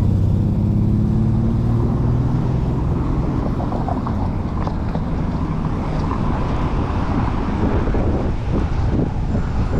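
Traffic and wind rush heard from a moving bicycle in city streets. A motor vehicle's engine drone at the start fades out within about two seconds, leaving a steady rush of wind and road noise.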